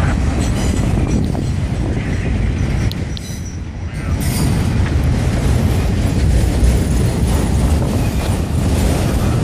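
Loaded autorack freight cars rolling past at close range: a continuous heavy rumble of steel wheels on rail with clacking and rattling from the cars, easing briefly a few seconds in.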